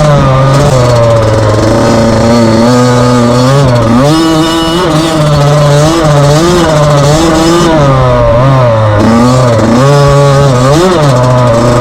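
Dirt bike engine running loud, its pitch rising and falling over and over as the throttle is opened and closed.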